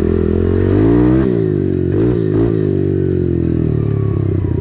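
Dirt bike engine under way, revving up to a peak about a second in and easing off, then a second shorter rev and drop before it settles to a steady run.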